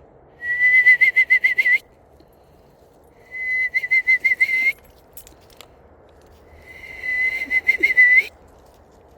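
A person whistling an imitation of a screech owl's trill: three whistled trills, each about a second and a half long on a nearly steady pitch, quavering rapidly, with pauses between them.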